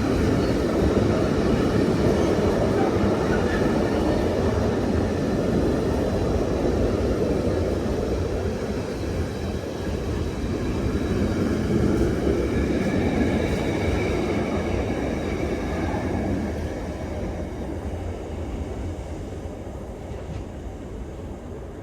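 Container freight train's wagons rattling past on the rails, a loud steady rumble that eases off and fades over the last few seconds.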